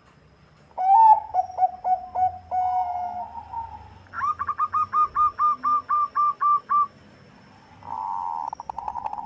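Zebra dove (Bangkok perkutut) singing. It gives a run of short coos that ends in a drawn-out rolling note, then a string of about a dozen even, slightly higher coos at roughly four a second, then another rolling trill starting near the end.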